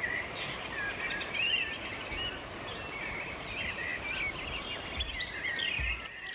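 Several birds singing and chirping, short overlapping calls over a steady outdoor hiss.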